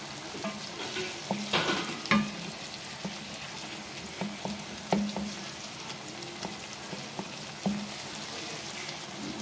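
Onion, tomato and green chilli masala sizzling in oil in a pan while a spatula stirs and scrapes through it, with scattered knocks of the spatula against the pan. The tomatoes are cooking down until soft.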